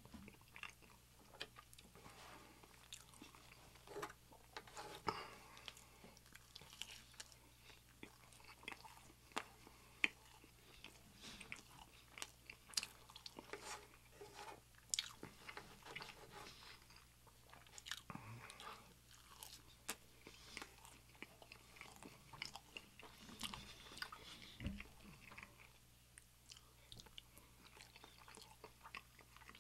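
Quiet, close-miked chewing and wet mouth sounds, with scattered sharp clicks and the scrape of a knife and fork cutting food.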